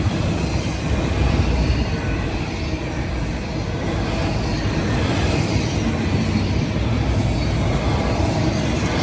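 A train rolling past on the tracks: a steady rumble of railcar wheels on the rails.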